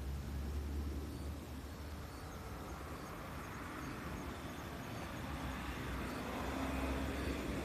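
Outdoor background noise: a steady low rumble with a hiss that swells in the second half, like distant traffic or wind.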